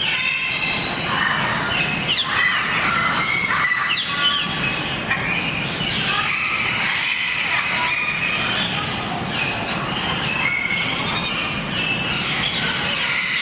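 A flock of birds chirping and squawking together: a dense, unbroken chorus of many overlapping short, high calls and quick pitch glides.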